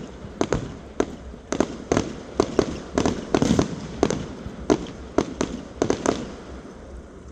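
Fireworks going off in a rapid, irregular string of bangs and cracks, thinning out about six seconds in.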